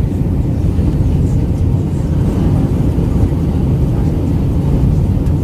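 Steady low rumble and roar inside the cabin of an Airbus A319-112 on descent: engine and airflow noise as heard from a window seat toward the rear of the cabin.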